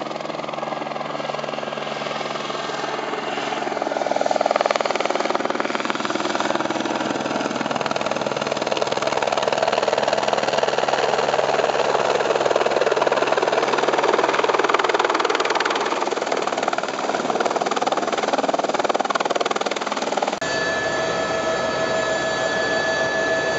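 Helicopter engine and rotor running steadily, louder from about four seconds in. Near the end the sound changes abruptly and a steady whine comes in.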